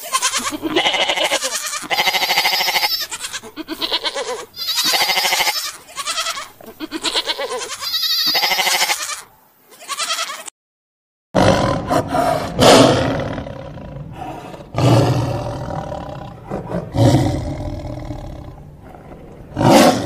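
A flock of sheep and lambs bleating over and over, the calls wavering. After a short silence about halfway through, a lion roars in several long, deep calls, each fading out.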